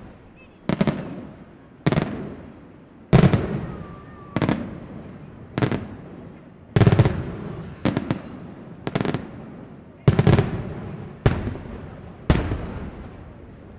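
Aerial firework shells bursting in a steady sequence of about one loud bang a second, a dozen in all. Each sharp report trails off in a rumbling decay before the next.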